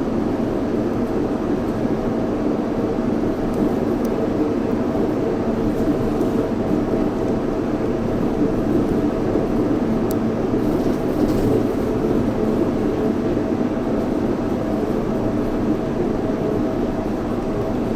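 Yurikamome 7300 series rubber-tyred automated guideway train running steadily between stations, heard from inside the front car: a constant rumble of tyres on the concrete guideway with a steady hum.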